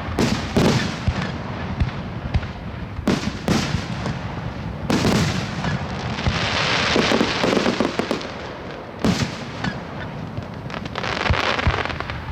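Fireworks display: sharp aerial shell bursts a few seconds apart, with long stretches of dense crackling in the middle and near the end.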